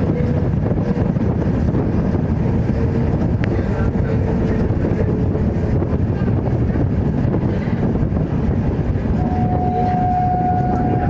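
Indian Railways train with LHB coaches running steadily, a dense, unbroken rumble of wheels on rails. A faint steady horn tone comes in about nine seconds in.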